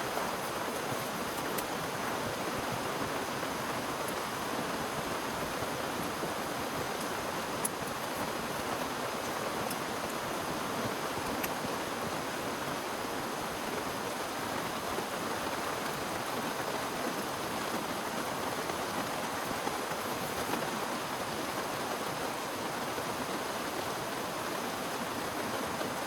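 Heavy rain pouring down steadily in a dense, even hiss, with a few faint drop ticks.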